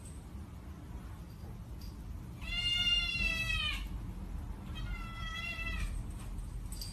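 A domestic cat meowing twice: a long meow about two and a half seconds in that drops in pitch at its end, then a shorter, quieter meow about a second later.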